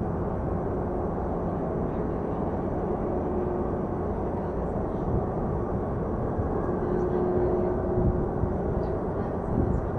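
Jet airliner engines giving a steady low rumble, with a faint held whine running through it.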